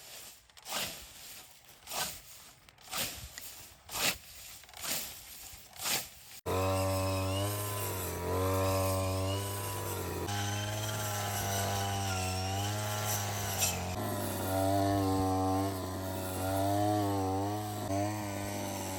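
Rhythmic swishing strokes, about one every half to three-quarters of a second. Then, abruptly, a small two-stroke engine such as a gas brushcutter or trimmer starts running steadily, its pitch wavering up and down as it cuts grass.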